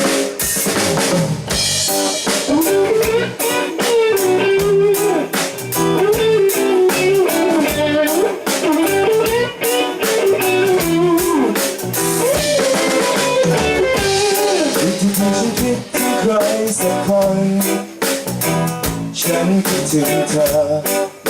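Band playing instrumental music on drum kit, bass and lead guitar, the guitar carrying a wavering melody over a steady drum beat.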